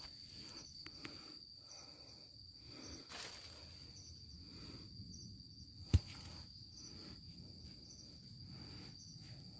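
Insects chirring in a steady high-pitched drone, with one sharp knock about six seconds in.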